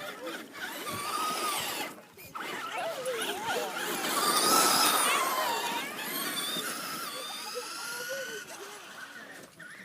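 Electric motor of a remote-control car whining, its pitch rising and falling as it speeds up and slows. It is loudest about halfway through, swelling and fading as the car passes close.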